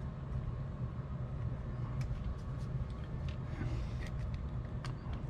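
Steady low background rumble with a few faint, light clicks of small plastic and metal parts of a cassette recorder being handled as its circuit board is turned over.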